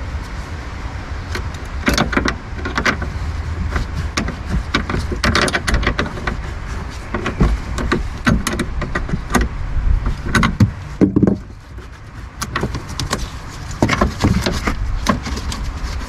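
Scattered, irregular clicks, knocks and rattles of hand tools and car parts being handled while dismantling a car, over a steady low rumble.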